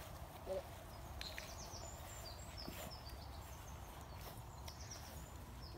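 Quiet outdoor ambience: a low steady rumble, with a small bird chirping a run of short high notes in the background from about a second in.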